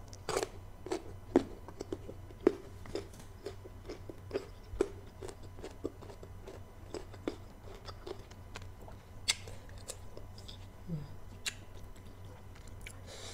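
Close-up chewing of crisp raw green mango slices, a steady run of sharp crunches about two a second.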